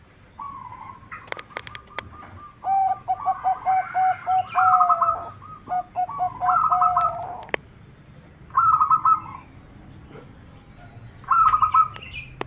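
Zebra dove (perkutut) cooing: several bouts of rapid, evenly repeated coo notes, with higher trilled phrases breaking in about four and a half, six and a half, nine and eleven and a half seconds in. A few sharp clicks sound early on the track and near the middle.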